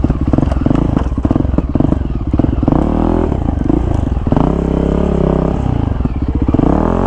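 Off-road motorcycle engine running and being revved, its pitch climbing and dropping back several times, with clattering through it.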